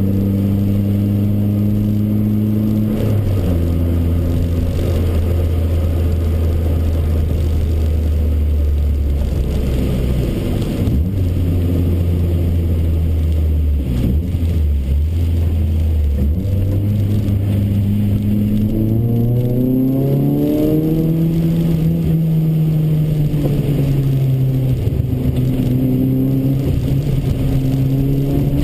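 Toyota Corolla AE93's 4A-GE 20-valve four-cylinder engine heard from inside the cabin while it is driven on track. The engine note drops about three seconds in and stays low for a long stretch, then climbs steadily through the last third, with a brief dip near the end.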